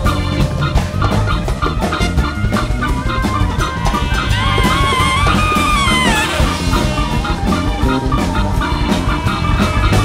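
A large free-jazz big band playing live: drum kit and bass driving a rock groove, with a lead line that bends and wavers in pitch from about four to six seconds in.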